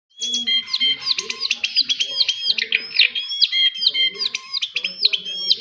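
A small songbird singing a fast, unbroken string of sharp, high chirps, several a second.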